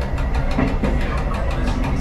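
Diesel train running along the track: a steady low engine rumble with a quick, regular clatter of wheels on the rails.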